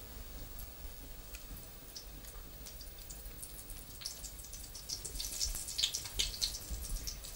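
Batter-coated courgette flowers frying in hot oil: a crackling sizzle of sharp spits and pops that grows denser and louder from about halfway through.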